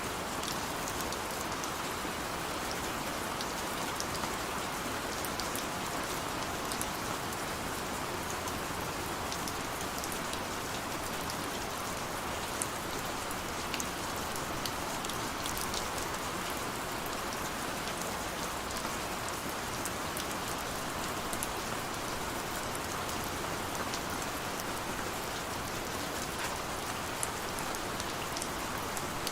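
Steady rain falling, an even hiss with scattered small drop ticks, water running down a window.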